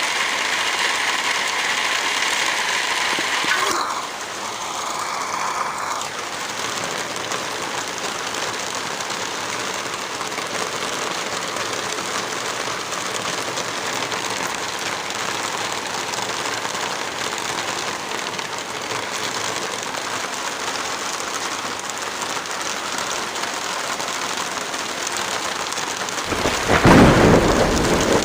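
Heavy rain falling steadily, a dense even hiss with a slight change in texture about four seconds in. Near the end a loud, deep thunderclap rumbles over the rain.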